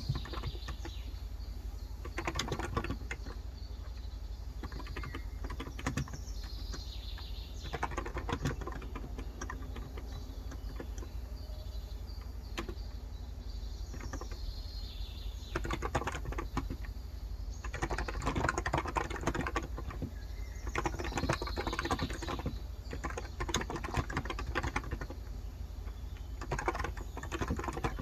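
Typing on a Cox Endeavor electrostatic capacitive (Topre-style) tenkeyless keyboard with light 35 g keys, in quick runs of keystrokes broken by short pauses.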